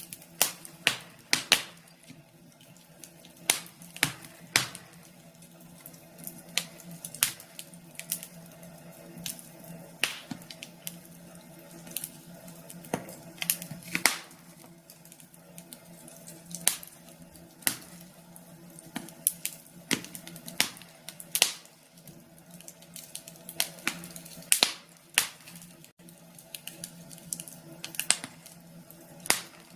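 Burning logs in a fireplace crackling, with irregular sharp pops and snaps, some much louder than the rest, over a faint steady low hum.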